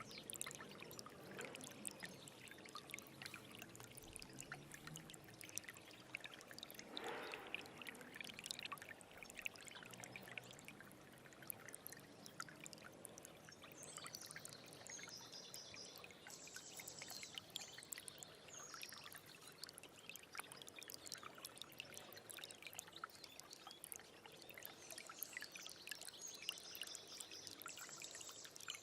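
A small stream trickling and bubbling over stones, a steady run of small splashes. A high chirping sounds twice, about midway and near the end.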